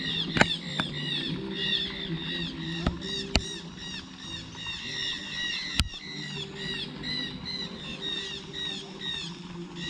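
Birds chirping: a steady stream of short, high, arched notes repeating several times a second, over a low background hum, with a few sharp clicks.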